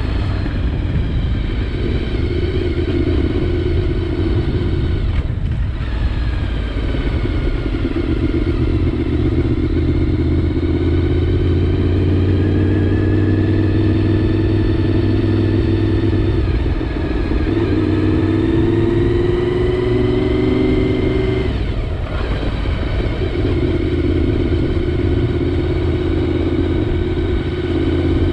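Honda VFR750's V4 engine running under way, heard through a helmet-mounted camera. The engine pitch rises and falls with road speed, with two brief breaks about five and twenty-two seconds in.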